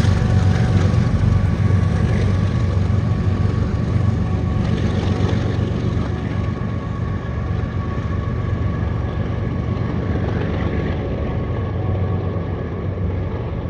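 Engine running steadily, a deep hum with a faint higher whine, slowly fading.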